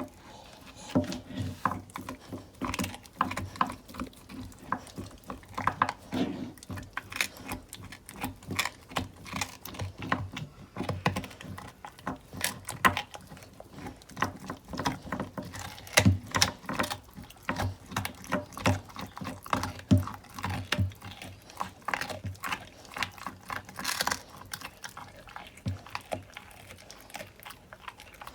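American Bully dog chewing raw meat and deer bones, a steady run of irregular crunches and chomps with a few louder cracks now and then.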